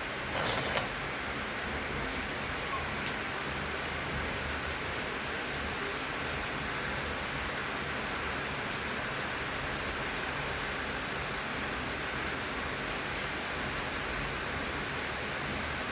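Steady rain falling, an even hiss of drops, with a brief louder noise about half a second in.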